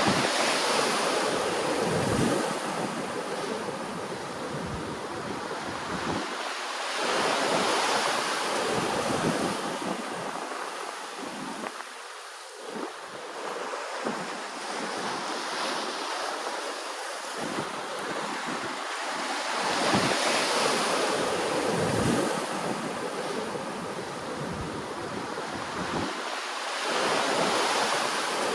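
Ocean waves washing in, the surf swelling and fading every several seconds.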